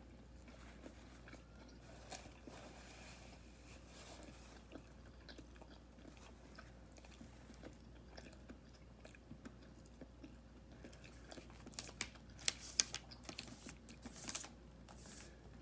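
Quiet chewing of a cold-cut sub sandwich on soft bread, with scattered small mouth clicks and a cluster of louder crunching clicks about twelve to fourteen seconds in.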